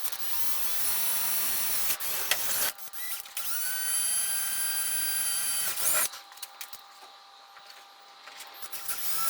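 Power drill running in two bursts of a few seconds each, the motor whine rising as it spins up and dropping away as it stops, followed by a few seconds of quieter handling.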